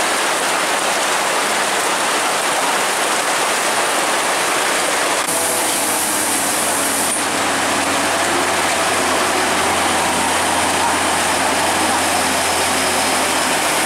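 Heavy rain pouring down with a steady hiss. About five seconds in, the low, steady rumble of a diesel truck engine comes in under it and continues to the end.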